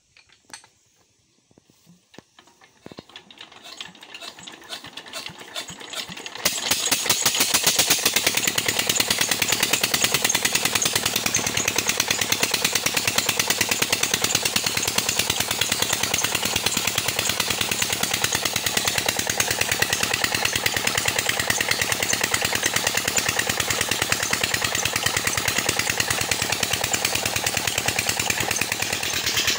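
Old 20 hp Petter diesel engine being started: knocks pick up speed and loudness over a few seconds until it catches, about six seconds in, then it runs steadily with a loud, rapid, even knock.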